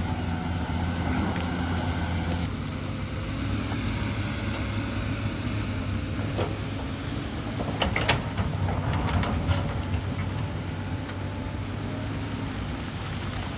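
Hyundai excavator's diesel engine running steadily, its sound changing abruptly about two and a half seconds in. A cluster of sharp knocks and scrapes comes about two-thirds of the way through, as the machine works rock and earth.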